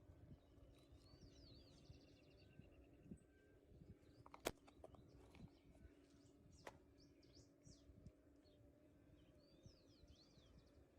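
Faint birdsong: two short phrases of quick rising-and-falling chirps, about a second in and again near the end, over a faint steady low hum. Two sharp clicks, the louder one about four and a half seconds in.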